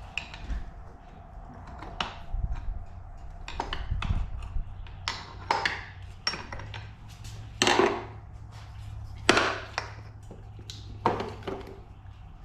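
Hand tools clinking and knocking against the metal parts of a two-stroke dirt bike engine as it is taken apart, in irregular strikes with the loudest near the middle and end, over a steady low hum.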